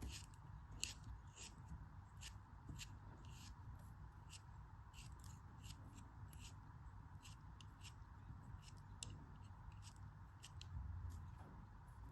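Faint, crisp crackling strokes of a blade cutting through a soft crumbly block, irregular at about two to three a second, over a steady low hum.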